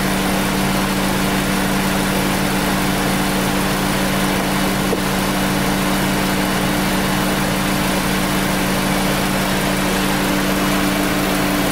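Volkswagen Golf R's 2.0-litre turbocharged four-cylinder engine idling steadily. It is left running so the DQ381 DSG gearbox oil stays warm and circulating for the oil-level check.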